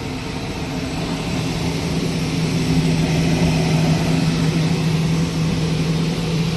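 Rubber extrusion and microwave vulcanization production line running: a steady machine hum with a low tone and an even hiss above it, growing a little louder over the first few seconds.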